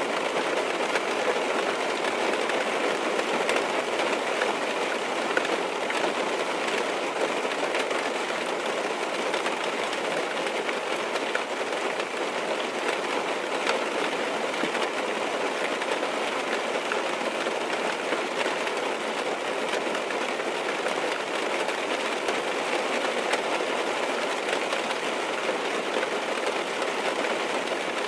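Rain falling on a car's roof and windows, heard from inside the cabin: a steady, even patter with faint scattered drop taps.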